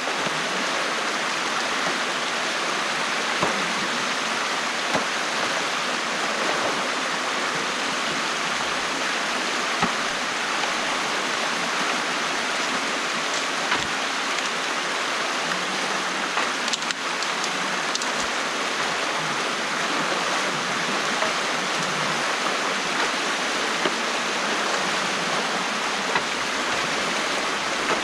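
Stream water rushing steadily through an opening in a beaver dam, with a few faint knocks.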